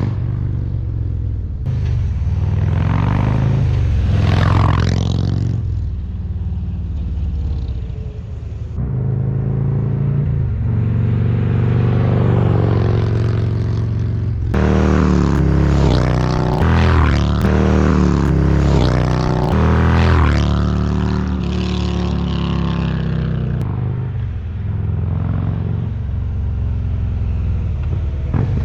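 2024 Harley-Davidson Road Glide's Milwaukee-Eight 117 V-twin running through Rinehart DBX40 slip-on mufflers under acceleration, its exhaust note climbing in pitch and dropping back several times as it revs and shifts. There is a deep low rumble throughout, and the sound changes abruptly a few times between stretches.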